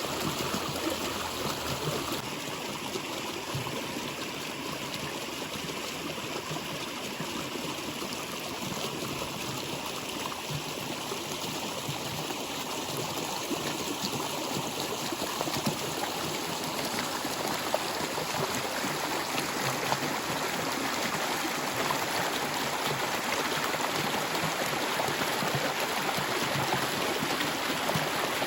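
A stream flowing steadily, water rushing and trickling over rocks, a little louder in the second half.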